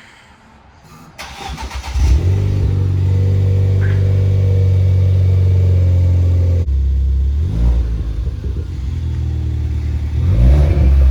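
Cold start of a Ford Fiesta ST's turbocharged engine through a Maperformance aftermarket exhaust. It cranks briefly about a second in and catches, then holds a loud fast-idle flare. After a few seconds it drops to a lower, slightly uneven cold idle, with two brief rises in pitch.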